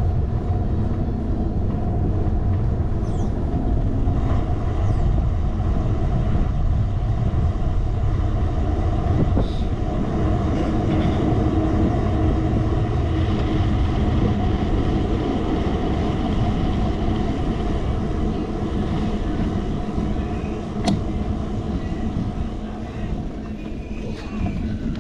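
Steady low rumble of wind buffeting a handlebar-mounted action camera's microphone during a bicycle ride, mixed with the rolling noise of the tyres on the road.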